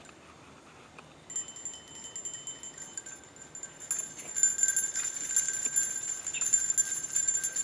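Many bells ringing together in quick, overlapping strikes, with high, steady ringing tones. They start about a second in and grow fuller and louder from about four seconds in.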